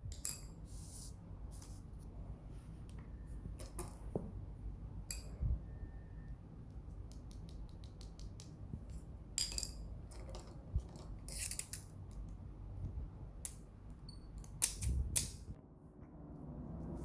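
Hands working yarn with a crochet hook close to the microphone: scattered light clicks and rustles at an uneven pace, over a faint steady low hum.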